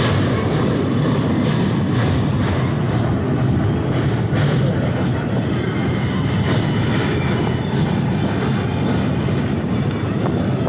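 Train running across a steel truss railway bridge, heard from on board: a steady, loud rumble of wheels on rail with faint scattered clatter.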